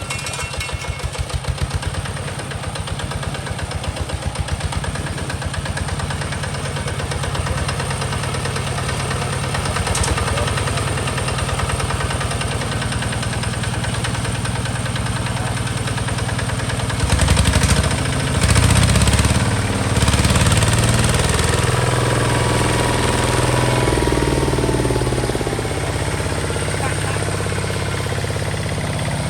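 Diesel engine of a Hinota HG Gold 155 DI tractor running with a steady pulsing beat. It gets louder and its pitch rises and falls for a few seconds past the middle, then it settles back to a steady run.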